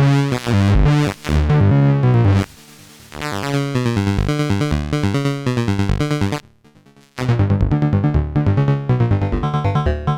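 Analog synthesizer playing a fast, repeating sequenced pattern of notes with a strong bass line. It drops out briefly about two-thirds of the way through, then starts again.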